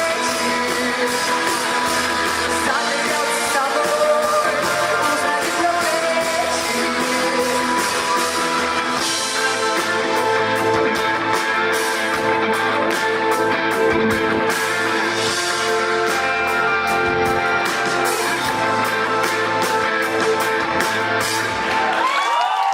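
Live rock band playing a passage of the song, with guitar, bass and drums. Near the end the band drops out, leaving a single held note.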